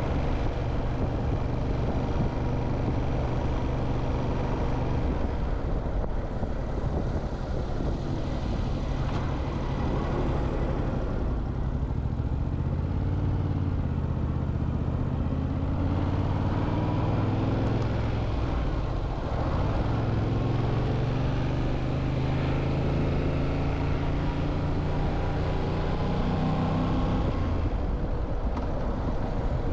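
Motorcycle engine running under way, its pitch rising and falling several times with throttle and gear changes, with a steady rush of road and wind noise.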